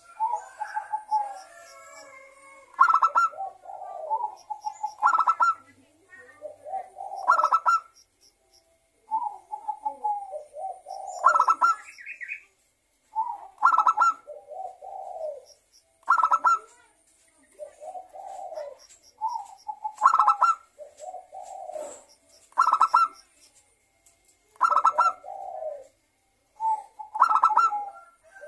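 Zebra doves (perkutut) cooing: repeated phrases, each a sharp higher note followed by a lower rolling, purring coo, about one phrase every two seconds.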